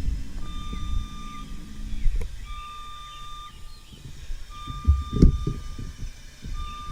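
Motion alarm of an aerial lift beeping at an even pace, each beep about a second long with a second's gap, as the lift comes down. A low hum from the lift's drive runs under the first two seconds, and a couple of dull thumps come about five seconds in.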